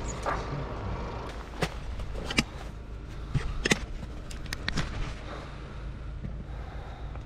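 Icy snow being struck and broken up: a handful of sharp knocks at uneven intervals of about a second, over a steady low rumble of wind.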